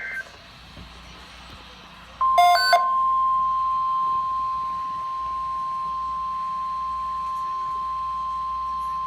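A NOAA Weather Radio alert heard through a weather radio's speaker. The end of a two-tone SAME digital header burst is heard at the very start. About two seconds in, after a short clicky beep, the steady 1050 Hz warning alarm tone starts and holds, signalling that an emergency alert is about to be read.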